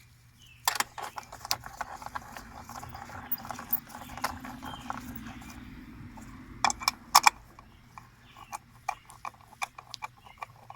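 Hand work on the plastic engine cover and its bolts: rattling and scraping as the cover is worked into place, with two sharp knocks about seven seconds in, then a run of light irregular clicks, several a second.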